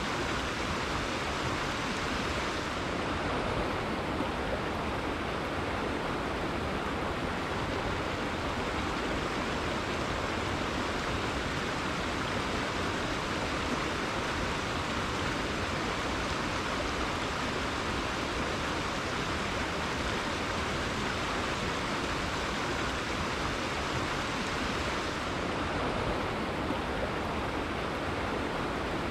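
River water flowing and rushing over rocks, a steady even wash of noise with no breaks.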